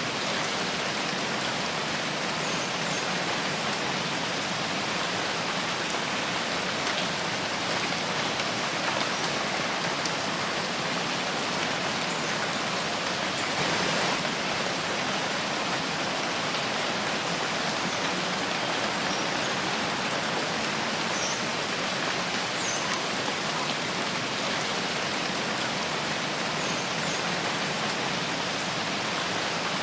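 Steady rain falling in a forest, an even hiss of drops on leaves and ground, swelling slightly about halfway through.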